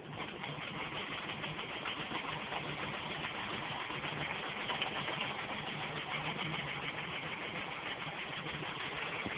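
Small steam engine running fast and steady: a rapid, even chuffing with hissing steam. It comes in suddenly at the start.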